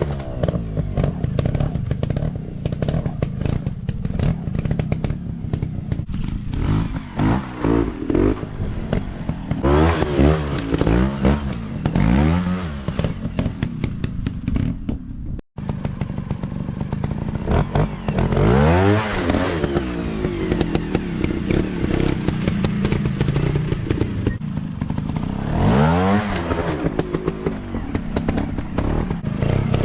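Small dirt bike engines revving over and over, the pitch climbing and dropping in quick swells, with clattering and knocks mixed in. The sound cuts out for an instant about halfway through.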